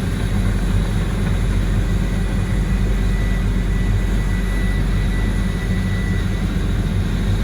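Heavy diesel engine of a log loader running steadily at constant speed, with a faint high whine for a few seconds in the middle.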